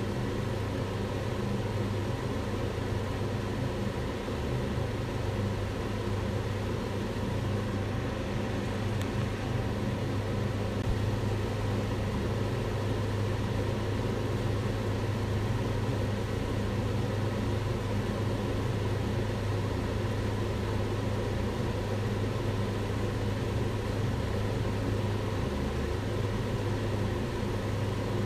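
Kitchen range hood extractor fan running steadily: an even rush of air with a low hum underneath.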